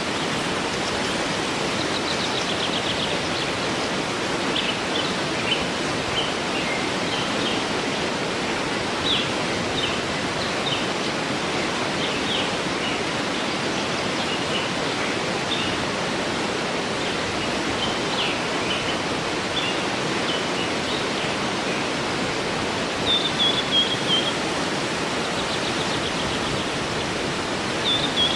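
Waterfall rushing steadily, with small birds chirping and trilling over it in short high calls throughout.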